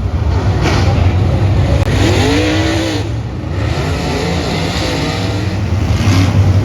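Dirt-track modified race car engines running and revving, the pitch rising and falling twice over a steady low drone.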